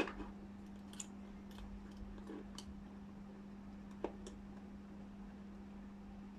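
A few faint clicks and taps as multimeter probes are handled and set against a plug fuse to measure its resistance, over a steady low hum.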